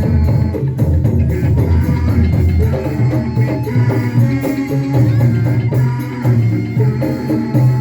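Band music: an instrumental passage with busy percussion, a strong bass line and sustained melody notes, with no singing.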